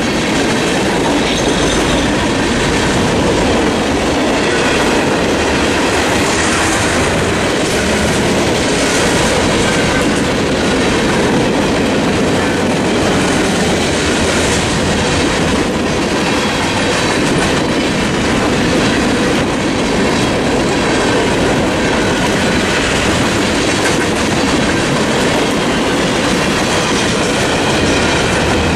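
Mixed freight train's cars, among them a centerbeam flatcar and tank cars, rolling past close by: a steady clatter and rumble of steel wheels on the rails, with clickety-clack over the rail joints.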